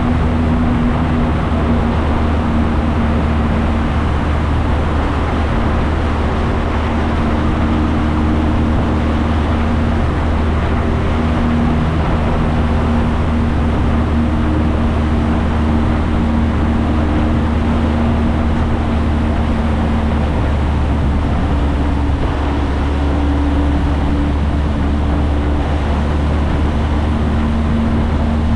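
Motorcycle engine running at a steady cruise, with a constant rush of wind and road noise; its pitch shifts only slightly.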